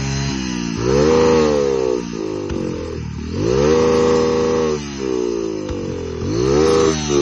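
Motorcycle engine revved hard three times, the pitch rising quickly, holding high for about a second and dropping back to a lower run between revs.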